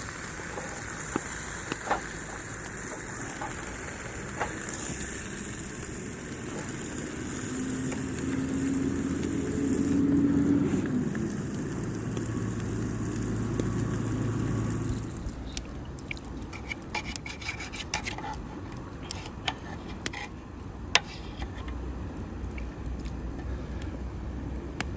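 Steak sizzling on a thin iron griddle plate over a campfire, with a low hum joining in partway through. About fifteen seconds in the sizzling stops, leaving scattered sharp clicks and crackles.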